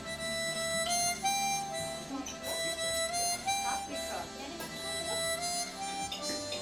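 Harmonica playing a slow melody of held notes that step up and down.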